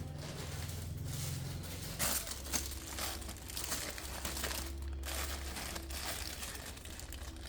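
Crinkling, crackling handling noises over a steady low hum, the crackling starting about two seconds in.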